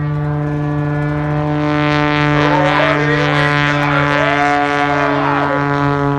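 Piston-engined propeller aircraft running at steady power as it flies by, a loud drone whose pitch holds while it slowly grows louder.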